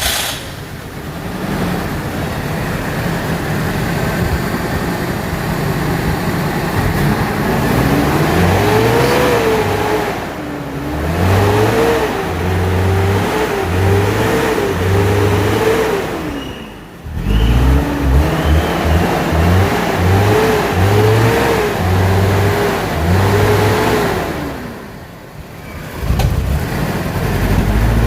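Toyota Tacoma engine running steadily, then revved repeatedly. The revs rise and fall over and over, dropping back three times.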